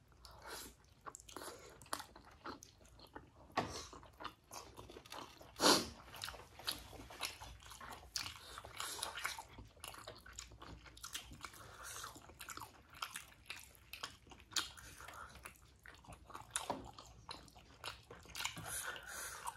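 Close-miked chewing and biting of steamed momo dumplings: a string of irregular short mouth clicks, with two louder ones a few seconds in.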